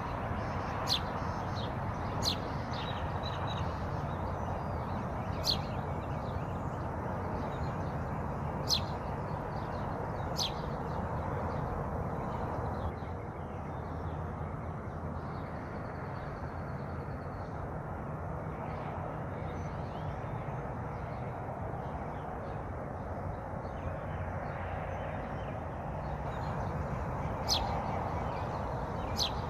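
Wild birds giving short, sharp calls every second or few seconds over a steady rush of flowing water. The calls bunch up in the first part, pause for a long stretch, then come twice more near the end.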